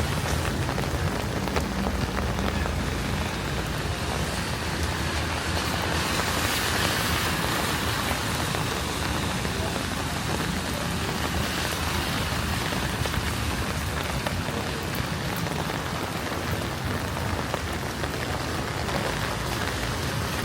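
Steady rain falling, an even hiss with a few faint drop clicks, over a low steady rumble.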